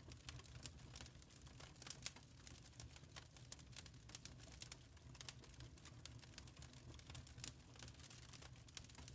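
Faint crackling of a wood fire in a fireplace: irregular small pops and snaps over a low, steady rumble.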